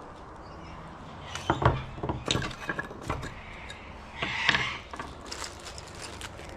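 Clicks and knocks of a dent puller's small parts being handled and fitted together, with a brief rustle about four seconds in.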